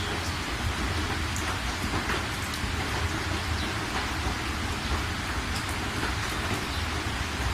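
Steady heavy rain falling, a dense even hiss with individual drops ticking through it and a low rumble underneath.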